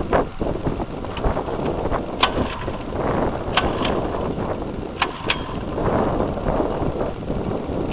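Wind buffeting the microphone, with a few sharp clicks scattered through it; no engine is running yet.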